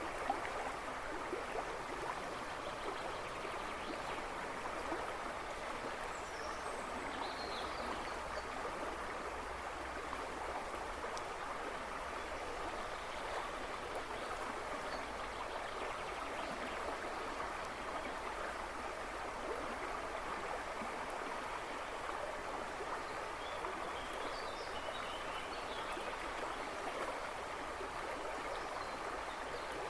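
A river rushing and babbling steadily over stones. A few faint bird chirps sound in the background about seven seconds in and again near the end.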